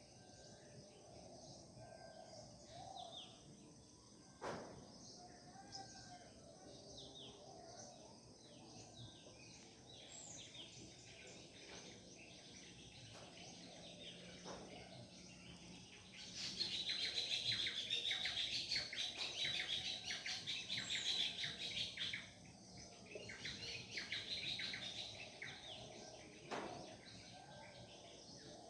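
Several birds singing and chirping at once, with one bird breaking into a loud, fast chattering song for about six seconds past the middle. A short knock sounds about four seconds in, and another near the end.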